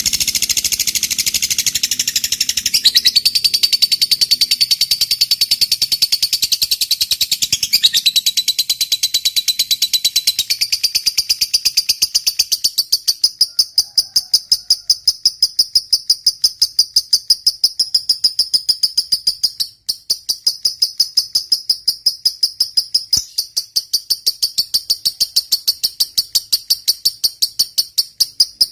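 Lovebird giving a long, unbroken high-pitched chattering trill (ngekek panjang) of rapid, evenly repeated notes, fuller in the first part and then an even, steady rattle with one brief break about two-thirds of the way in.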